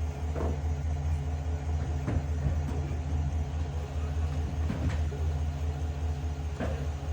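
A steady low mechanical hum from a running motor, with a few faint knocks and clicks over it.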